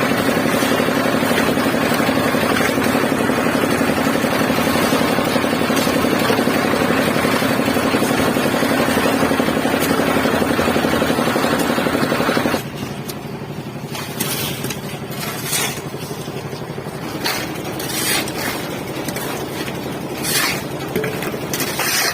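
A motor runs steadily and cuts off abruptly about halfway through. After that, scattered scrapes and knocks follow.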